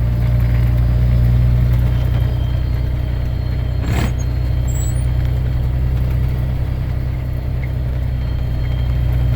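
Semi truck's diesel engine running with a steady low drone. A single sharp click comes about four seconds in.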